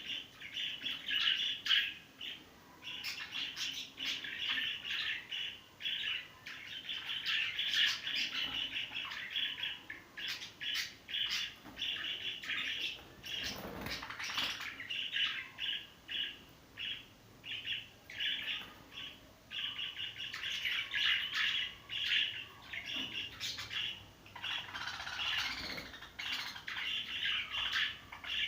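Budgerigars chattering and chirping in fast, continuous twittering.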